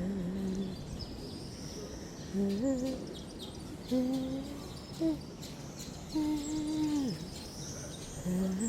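A voice humming a series of short, steady low notes with pauses between them; one longer note near the end slides down in pitch.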